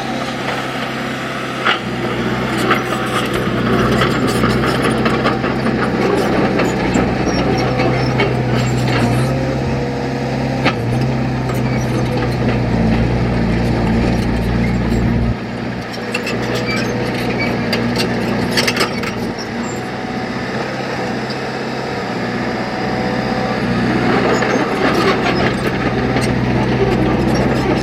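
Diesel engine of a heavy earthmoving machine running steadily under work, with scattered metallic clanks and knocks. The engine note shifts about halfway through.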